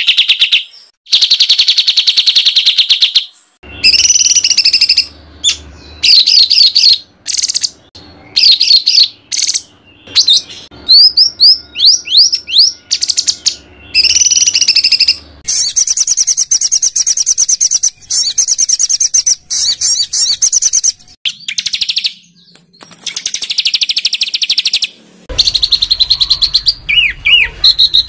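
Loud, harsh songbird song in rapid, dense phrases: fast trills and quick rising and falling whistles, each phrase starting and stopping abruptly with short gaps between. It is 'tembakan' masteran song used to tutor competition songbirds.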